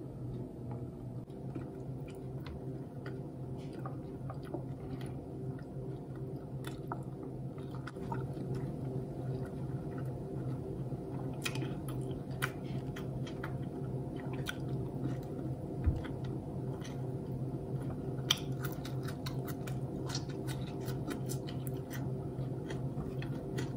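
A person biting into and chewing a red hot dog dipped in ketchup: wet chewing with many small mouth clicks, over a steady low hum.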